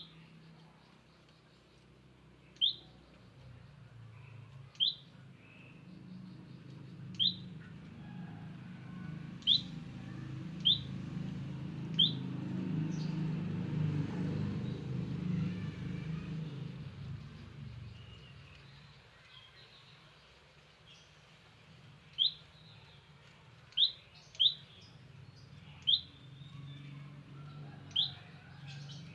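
Wild prenjak lumut giving short, sharp, high single call notes, one every second or two, with a gap in the middle. A low rumble swells and fades behind the calls in the middle.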